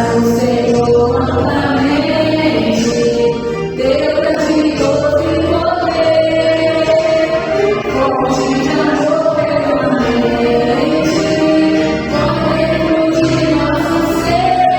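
Christian worship song: voices singing long, held melodic lines together over instrumental accompaniment with a steady bass line.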